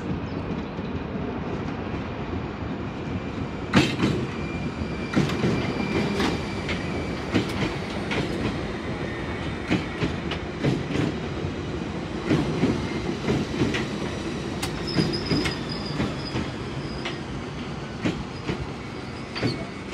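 Bakerloo line 1972 Tube Stock train running into the platform, its wheels clacking irregularly over rail joints. A high thin squeal of wheels on rail runs over the steady rumble.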